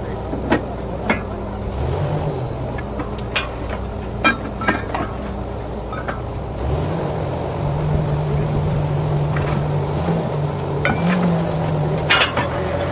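Diesel engine of a truck-mounted borewell drilling rig running under load, its pitch stepping up about two seconds in and again about halfway, then holding steady, with scattered sharp knocks throughout.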